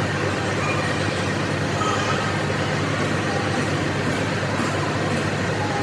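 Heavy machinery running steadily: a constant low hum under dense mechanical noise, with no breaks.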